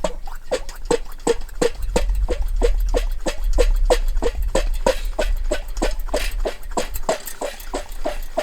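Steady rhythmic knocking, about three to four strokes a second, each with a short hollow ringing tone, over a low hum.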